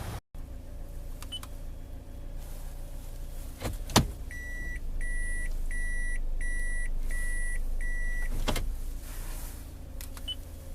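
Toyota Noah power sliding door in motion: a sharp clunk as it is released, then the door motor running for about four seconds while its warning buzzer beeps six times, ending with a thud at the end of the door's travel.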